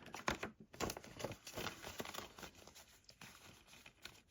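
Faint handling noises from a plastic Blu-ray keep case and its paper inserts: scattered light clicks and rustling.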